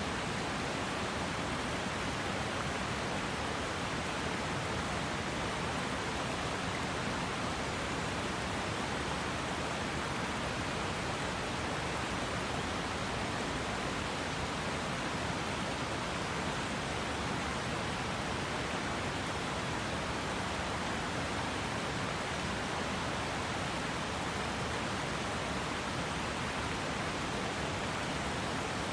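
A river flowing over rocks, a steady rushing of water without a break.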